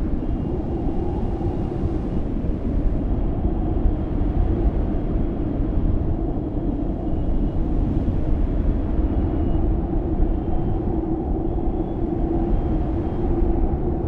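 Strong cyclone wind blowing in a steady, loud low rumble without letup.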